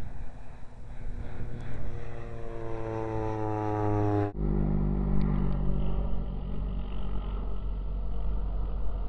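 Low pass of a crop-duster airplane: its piston engine and propeller run loudly, the pitch falling steadily as it goes by. About four seconds in the sound cuts abruptly to a steady, low engine drone.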